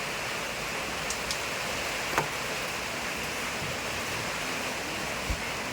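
Steady rain falling, an even hiss, with a few single sharper taps of drops about a second in, twice more soon after, and near the end.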